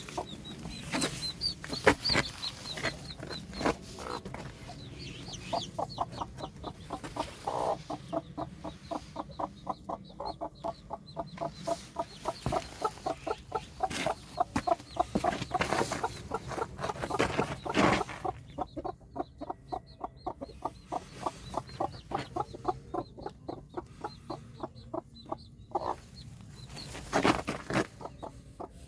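Broody Araucana mother hen clucking in long, fast, even runs of short clucks, with her chicks peeping high during the first few seconds.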